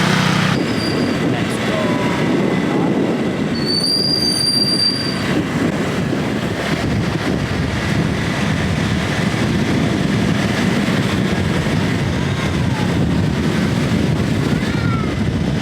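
Steady rumble and road noise from riding in a moving vehicle, with a brief high-pitched squeal about four seconds in.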